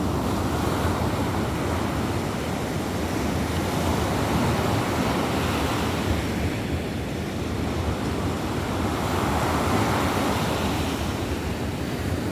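Baltic Sea surf breaking on a sandy beach, the rush swelling and ebbing every few seconds, with wind buffeting the microphone.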